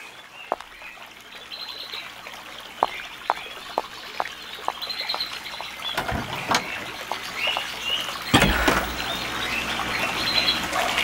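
Birds chirping in short rising calls over a soft trickling hiss, with a run of sharp clicks and one louder knock about eight and a half seconds in.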